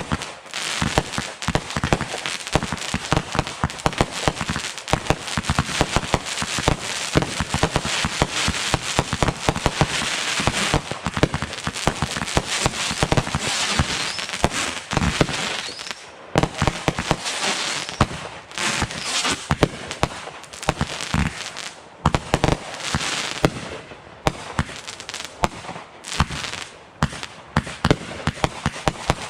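Fireworks going off: a rapid, continuous barrage of bangs and crackling, easing briefly a couple of times before picking up again.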